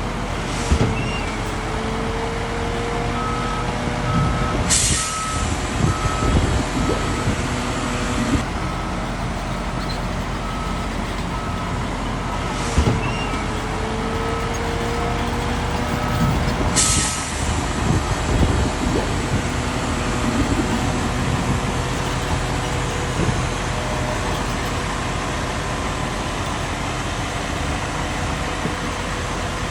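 Heavy earthmoving machines running steadily while a reversing alarm beeps about once a second for roughly fourteen seconds, with two short, sharp air hisses about twelve seconds apart.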